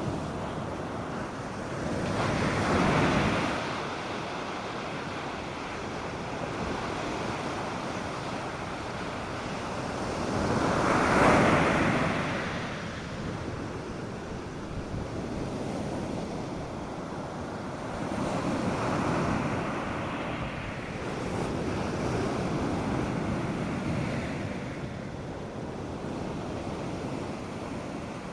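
North Sea surf breaking on a sandy beach: a steady wash of waves with swells of louder breakers about every eight seconds, the loudest near the middle, with some wind on the microphone.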